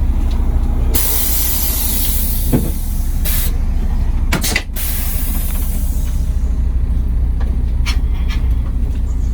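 Charter coach engine idling with a low steady hum, and about a second in a sudden loud hiss of compressed air from the coach's air system that fades away over several seconds, followed by two shorter hisses.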